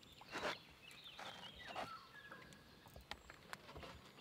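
Faint outdoor ambience with short bird-like chirps and whistles in the first couple of seconds, and a brief noisy sound about half a second in.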